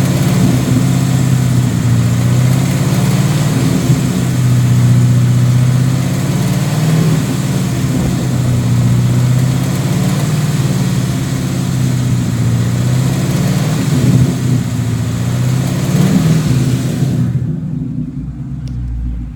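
Ford Coyote 5.0 V8 of a 2017 Mustang GT, with an aftermarket cat-back exhaust, running in neutral and free-revving now and then. Throughout, a clicking tick likened to a BBQ grill igniter, which the owner has not yet traced. The sound fades near the end.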